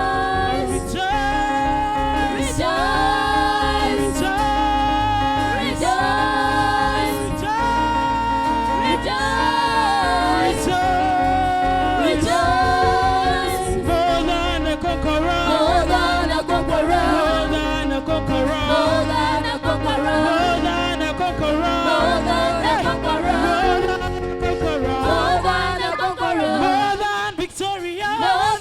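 Live gospel music: singers over a band with a steady bass and drum beat. About 26 seconds in, the bass and drums drop out, leaving the voices.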